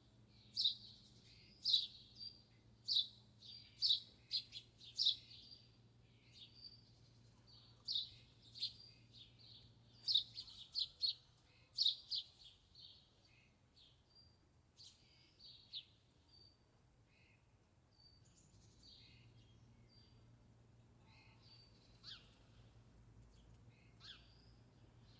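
Small birds chirping: short, sharp high chirps about once a second at first, several quick chirps in a row around ten to twelve seconds in, then sparser and fainter calls toward the end.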